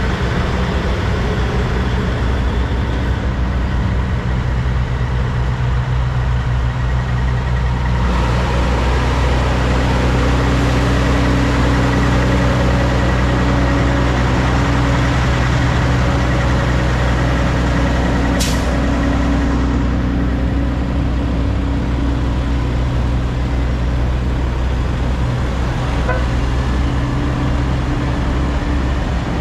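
Heavy diesel truck engine running steadily under way, its engine note changing about eight seconds in. A brief sharp click-like sound comes about eighteen seconds in.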